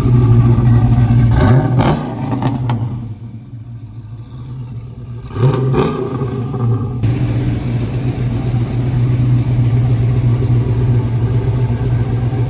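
Supercharged 416-cubic-inch V8 running steadily. Its sound drops away about two seconds in, then comes back with a sudden short rev about five seconds in and settles into a steady idle.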